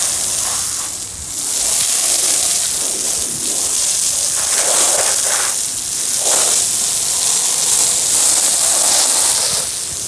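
Loud, steady hiss of a jet blowing into the car's seal channel to clean it out, dipping briefly about a second in and again near six seconds.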